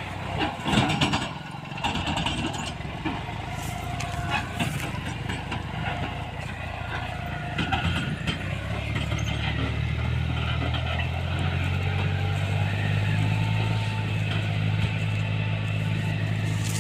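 Eicher 333 tractor's diesel engine running under load as it hauls a loaded sugarcane trolley. A few knocks sound near the start, and about halfway through the engine note grows louder and holds steady.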